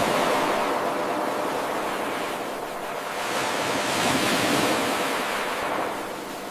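Ocean waves washing on a shore, a steady surf hiss that swells and ebbs. The sound surges at the start, dips, builds into a second swell about four seconds in, then falls away near the end.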